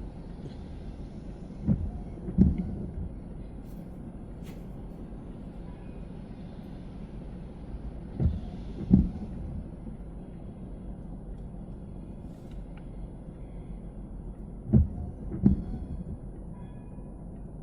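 Car driving slowly with a steady low road rumble, its wheels thumping three times over bumps in the road, each as a pair of knocks less than a second apart as the front and then the rear wheels go over.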